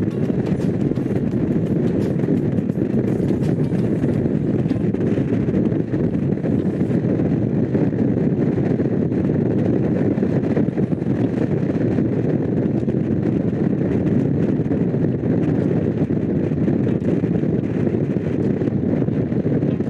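Honda CX500's liquid-cooled V-twin engine running at a steady road speed, mixed with wind noise on the microphone.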